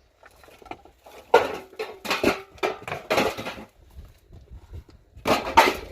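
A series of short clattering, scraping sounds of household items being handled, with a faint ringing tone during the first few.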